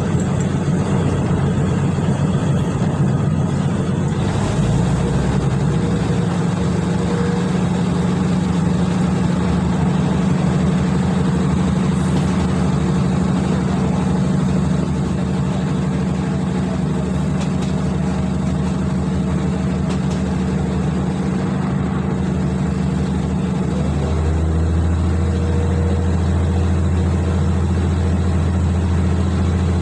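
Steady drone of a moving vehicle's engine and running noise. Its low hum steps to a new pitch about four seconds in and again near twenty-four seconds.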